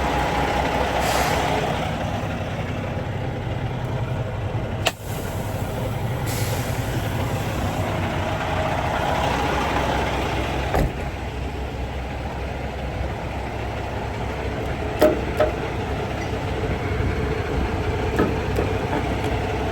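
Semi-truck diesel engine idling steadily, with short hisses of air about a second in and again around six seconds, and a few sharp clicks or knocks.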